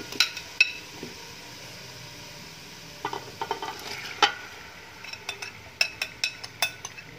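Marinated chicken pieces going into hot fried masala in a steel pot, the oil sizzling steadily. Sharp clinks of a metal spoon against the pot and bowl come a few times early on, once about four seconds in, then thick and fast over the last two seconds.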